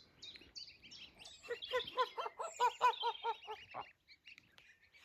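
Domestic geese calling in a quick run of short honks, about four or five a second, starting about a second and a half in and stopping near four seconds, over short high peeps from goslings.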